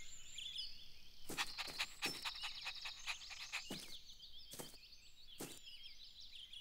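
Faint twittering of small birds as a garden background, with a run of short sharp clicks about a second and a half in and a few single clicks later.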